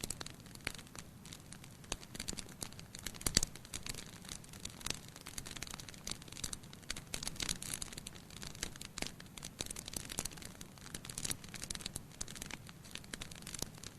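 Firewood burning in a fireplace: irregular crackling and small pops over a faint steady hiss, with one louder pop about three and a half seconds in.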